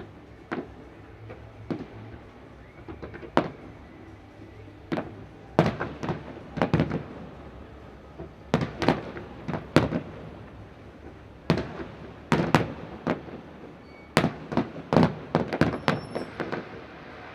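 Display fireworks bursting overhead: a rapid, irregular series of sharp bangs that come in clusters, several in quick succession, with short lulls between.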